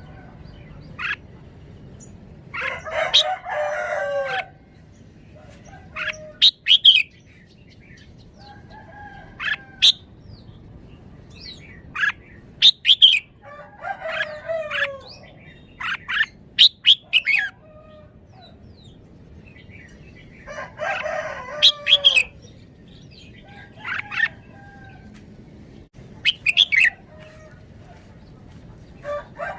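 Red-whiskered bulbul singing short, sharp whistled phrases every second or two. A rooster crows three times in among them, a longer, harsher call each time.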